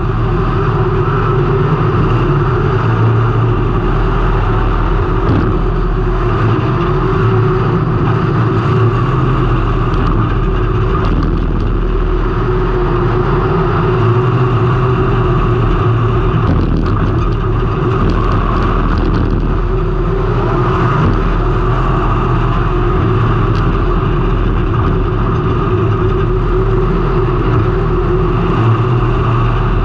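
Race car engine running hard and steadily, its pitch swelling and easing a little, heard from a camera mounted on the car.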